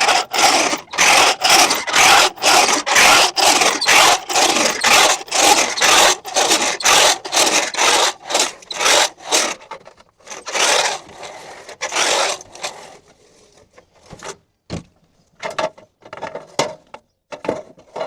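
Hand tool scraping along an aluminum sheet in quick repeated strokes, about two a second, as the sheet is worked along its bend line; after about 13 seconds the strokes stop and give way to scattered clicks and taps.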